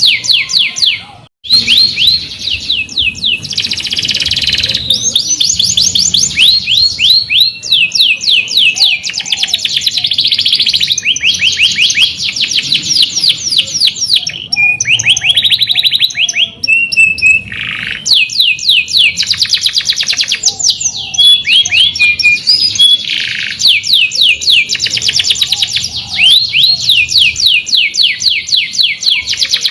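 Domestic canary singing a long, almost unbroken song of fast rolling trills and sharp chirps, with a short break about a second in.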